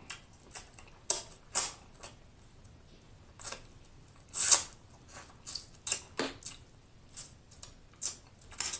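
Chewing and lip-smacking while eating snow crab meat: scattered short, wet mouth clicks and squishes, with one louder smack about halfway through.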